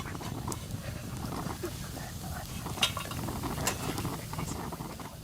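A few sharp clicks and knocks of cooking gear being handled at a campfire, over a low steady rumble.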